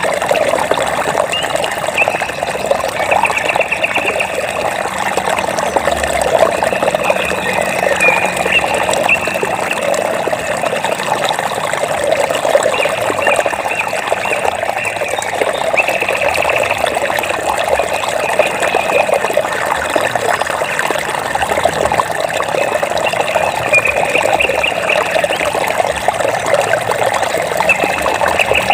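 Water trickling and splashing steadily, like a small stream. Over it, a high, rapid pulsing trill from a small animal comes and goes every few seconds, each lasting a second or two.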